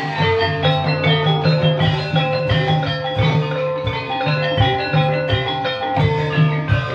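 Ebeg accompaniment music: gamelan-style metallophones ringing out repeating melodic notes over a steady pattern of hand-drum strokes.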